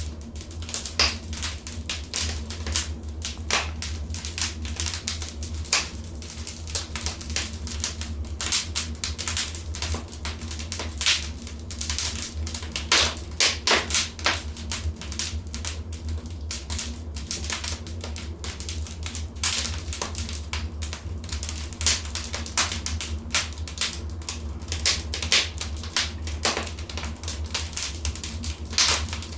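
Wood fire crackling in a fireplace: frequent sharp pops and snaps at irregular intervals over a steady low rumble.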